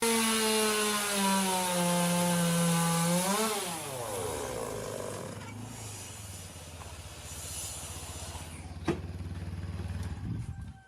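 A power tool or electric motor running with a high whine, its pitch sliding down as it spins down about three and a half seconds in. A lower, steady hum with a fast flutter follows and cuts off just before the end, with one sharp click shortly before that.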